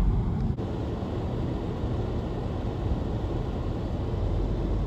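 Steady low rumble of a car on the move, road and wind noise heard from inside the cabin, with one faint click about half a second in.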